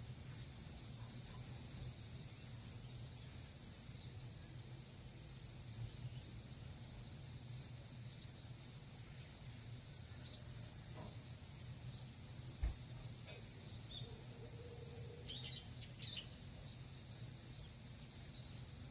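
Steady high-pitched chorus of insects shrilling without pause, over a low background hum, with a few faint short chirps about three-quarters of the way through.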